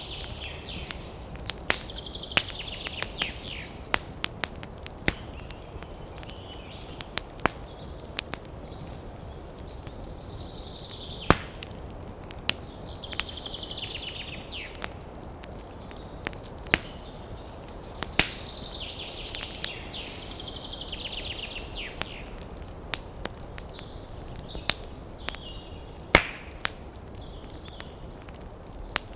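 Wood campfire crackling, with irregular sharp pops over a steady wind-in-the-trees hiss. Birds sing in about four short trilled phrases.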